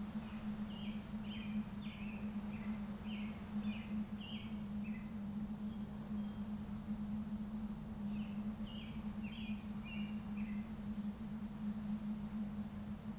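A small bird sings two phrases of quick, high, chirping notes a few seconds apart over a steady low hum and a soft background hiss.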